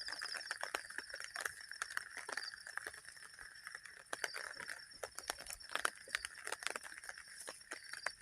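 Scattered irregular taps of water dripping onto a tarp shelter after rain, over a steady high chorus of calling insects, with a short rapid trill about the start.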